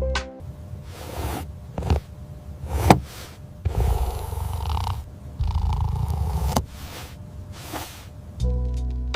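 A cat purring, a rough, fast-pulsing rumble that swells louder twice in the middle, with a few light clicks.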